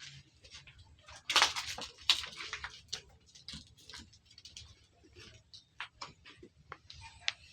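Goats moving about in a pen: irregular light clicks and rustling, loudest in a cluster about a second and a half in.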